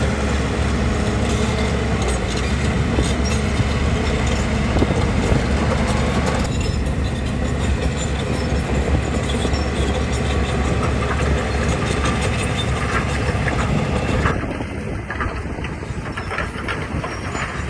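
Crawler bulldozer working: diesel engine running with the clatter and clank of steel tracks. The sound changes abruptly about six and a half and again about fourteen seconds in.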